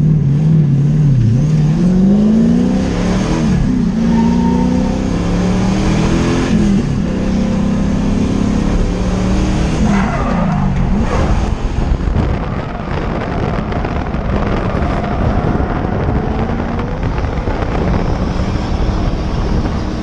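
LS1 V8 engine in a BMW E36 M3 revving up and down repeatedly, its pitch rising and falling several times in the first half, then running more steadily with road and tyre noise.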